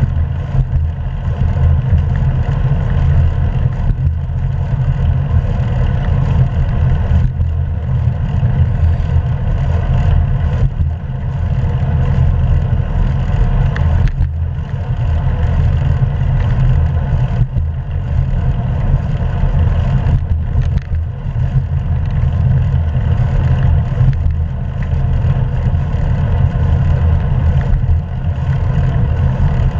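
Wind rushing over an action camera's microphone on a moving bicycle, a loud, steady low rumble, with road noise from the tyres under it.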